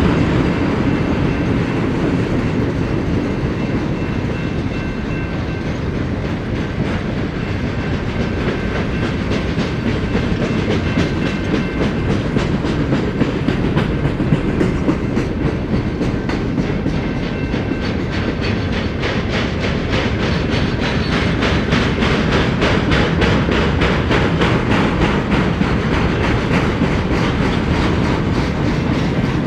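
Freight train's cars rolling past close by at speed: a steady loud rumble of wheels on rail, with rapid, regular clicking of the wheels over the rail joints that grows more prominent about halfway through.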